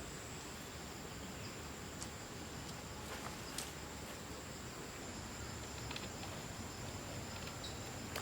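Insects chirring in a steady, high-pitched drone, with a few faint clicks about two and three and a half seconds in.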